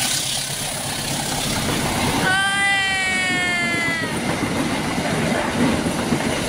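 Passenger coaches of a train rolling past on the rails, a steady noise of wheels on track. About two seconds in, a high held tone, falling slightly in pitch, sounds for nearly two seconds.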